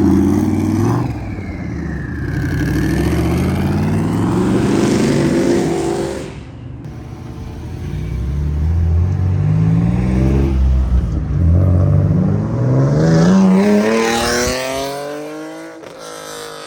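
Modified car engines revving and accelerating hard, the pitch climbing in two long pulls, the first dropping away about six seconds in and the second rising steeply before cutting off near the end.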